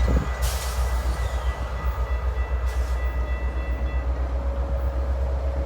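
GO commuter train passing, the MP40 diesel locomotive going by with a heavy low rumble. A steady high tone rings over it and stops about four seconds in, with two short hisses about half a second and two and a half seconds in.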